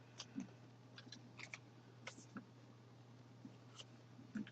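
Near silence, with a few faint, scattered clicks and rustles from handling a plush toy and its tags.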